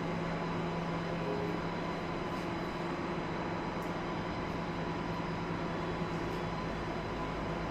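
Steady machinery and ventilation hum in a factory hall, a constant whir with a low drone and a few faint ticks.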